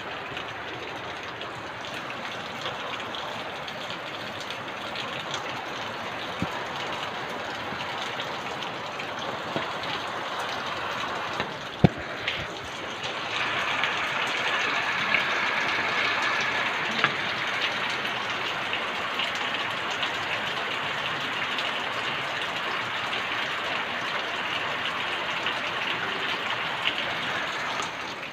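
Heavy rain falling on a corrugated roof: a steady, dense hiss that grows louder about halfway through, with a single sharp click just before the rise.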